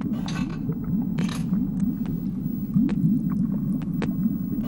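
A steady low rumbling ambient noise bed, dotted with scattered light clicks and two brief hissy bursts in the first second and a half.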